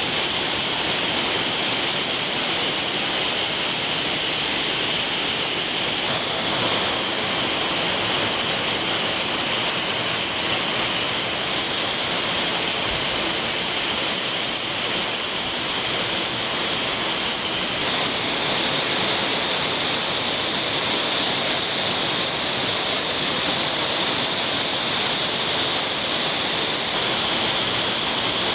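Heavy rain pouring down steadily: a loud, even hiss.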